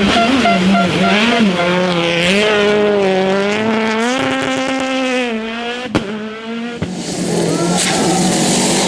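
Rally car engine running at high revs, its pitch climbing and dropping with throttle and gear changes. A sharp crack comes about six seconds in.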